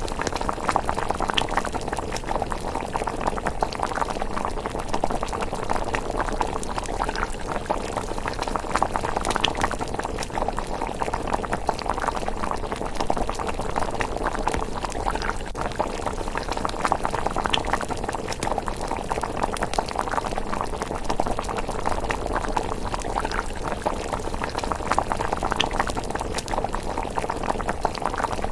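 Pot of thick miso rice porridge simmering, bubbling steadily and continuously with occasional sharper pops.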